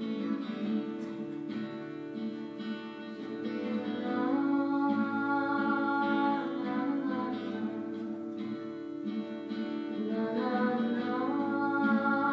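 A band playing a song: acoustic guitar strummed while a voice sings, moving up to higher held notes about four seconds in and again near the end.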